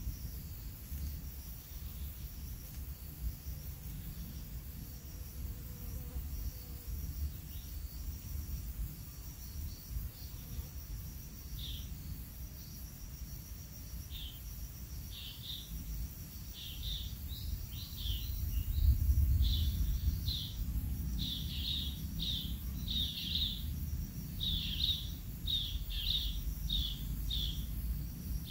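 Short, high bird chirps that begin partway through and come quicker, about two a second, toward the end, over a steady low rumble.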